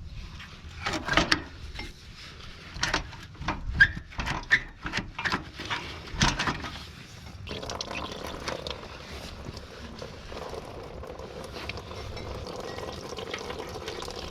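A series of clicks and knocks as the radiator hose is worked loose. From about halfway, a steady stream of coolant runs out of the disconnected radiator hose, draining the cooling system.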